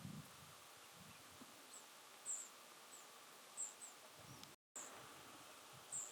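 Faint outdoor ambience with a few short, high-pitched chirps spaced about a second apart and some faint low thumps. The sound drops out completely for a moment just after the middle.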